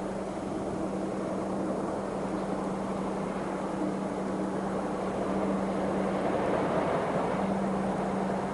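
A large vehicle engine idling steadily, with a constant low hum.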